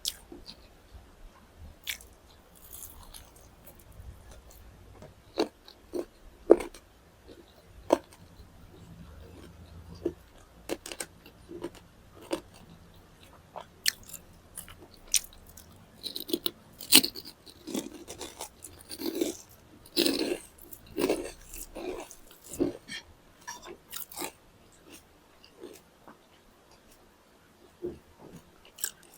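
Close-miked chewing and biting of food: irregular crisp crunches and wet mouth clicks, coming thickest and loudest about halfway through.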